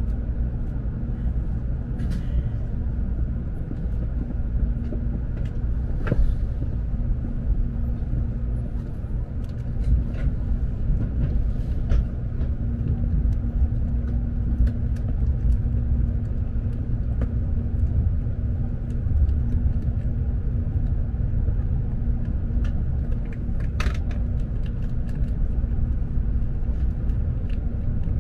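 Inside a Shinkansen bullet train's passenger cabin: a steady low running rumble with a steady hum as the train pulls out of the station and gathers speed, with scattered light clicks.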